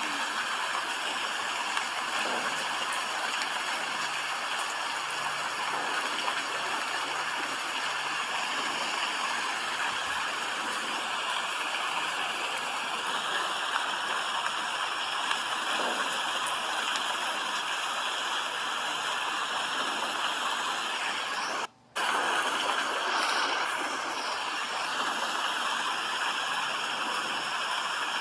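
Steady rain falling, an even hiss with no single drops standing out. It cuts out for a split second about three-quarters of the way through, then carries on unchanged.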